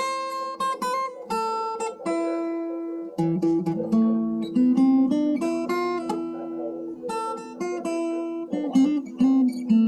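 Acoustic guitar played solo: a run of picked melody notes over ringing lower strings, with a lower bass line coming in about three seconds in.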